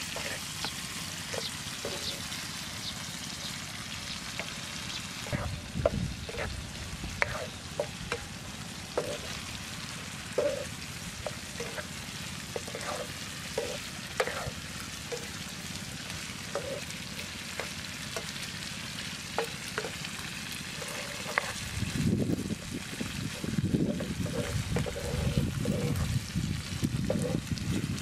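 Chopped liver with chilli sizzling in a frying pan on a portable gas stove, with a steady hiss and the spatula scraping and tapping against the pan as it is stirred. A louder low rumble joins in for the last several seconds.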